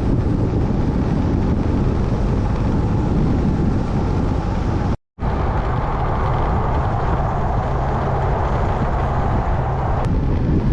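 Wind buffeting the microphone on a moving motorbike, mixed with the bike's engine and road noise, a steady loud rush. The sound drops out completely for a moment about halfway through.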